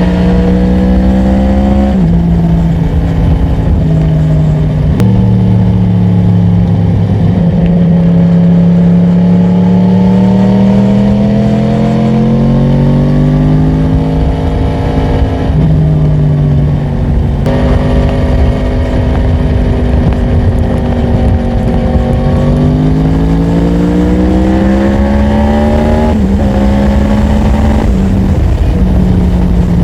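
Yamaha MT-10's crossplane inline-four engine under way, climbing in pitch as it accelerates and dropping abruptly at each upshift, several times, with a low rush of wind beneath.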